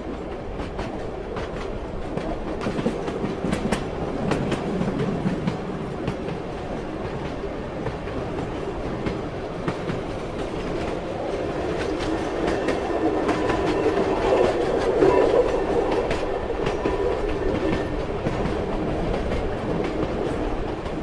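Train rumbling along the track, its wheels clacking over rail joints with frequent clicks, growing somewhat louder past the middle.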